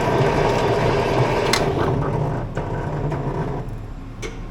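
Old grain truck's engine being cranked by its starter with the valve compression release held open, turning over on a weak, nearly flat battery without firing. The cranking fades out about three and a half seconds in, and a single click follows.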